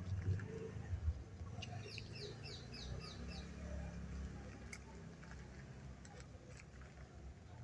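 A bird calling a quick run of about six short, high, falling chirps, over a steady low rumble.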